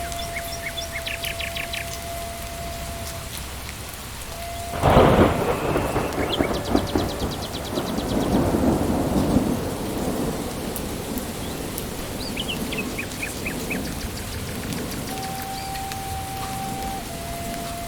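Steady rain falling in a forest, with a thunderclap that cracks suddenly about five seconds in and rolls off in a rumble over the next several seconds. Short bursts of bird chirping come through the rain.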